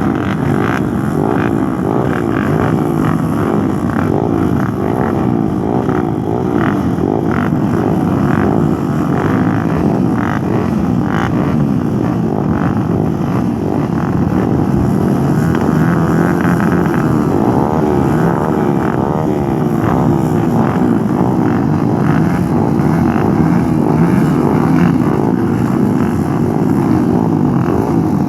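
Off-road motorcycle engines running hard, revving up and down through the gears without a break. In places more than one engine is heard at once, their pitches crossing.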